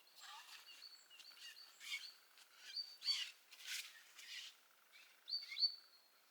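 Faint high bird chirps: a string of short calls, several sliding down in pitch, mixed with a few brief rustling noises.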